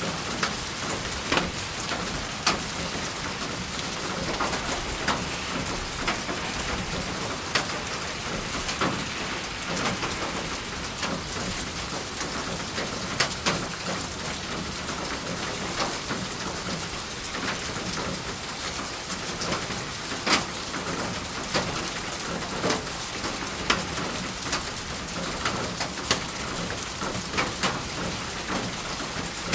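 Steady rain falling, an even hiss, with loud individual drops tapping sharply on a hard surface at irregular moments.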